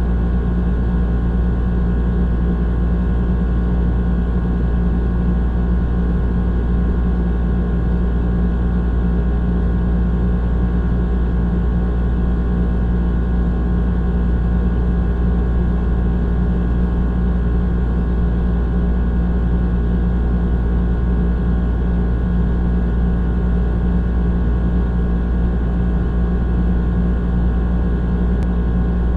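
Old air conditioner running steadily: a constant low hum with even fan noise over it, unchanging throughout.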